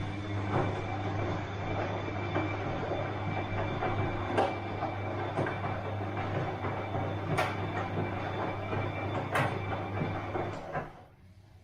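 Bosch washing machine running, with a steady motor hum under the noise of the turning drum and a few sharp knocks. It stops suddenly about a second before the end.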